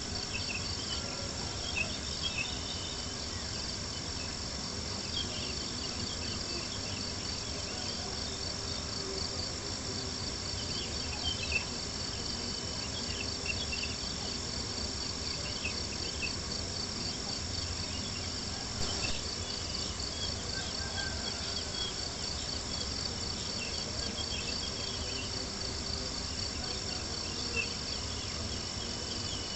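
Crickets chirping in a steady, fast-pulsing chorus, with a few scattered sharp pops.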